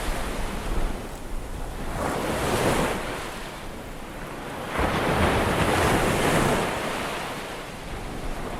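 Ocean surf: waves washing in, with two swells of rushing noise, one about two seconds in and a longer one about five seconds in.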